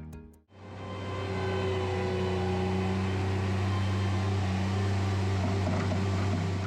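Small engine-driven site machine running steadily at a constant speed, with a strong low hum. It starts about half a second in, after a brief gap.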